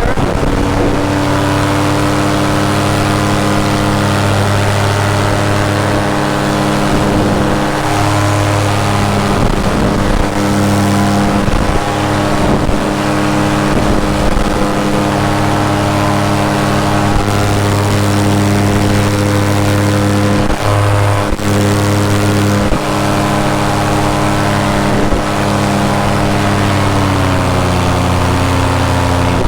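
Paramotor engine and propeller running steadily at cruise throttle in flight, with a brief drop in engine pitch near the end.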